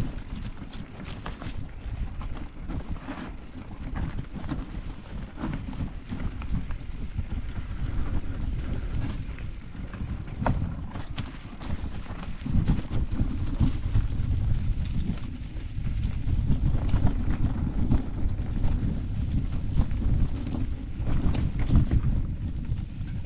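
Mountain bike rolling over rough trail, with tyres crunching and the bike rattling in irregular knocks and clicks over a steady low rumble of wind on the microphone. It gets louder about halfway through.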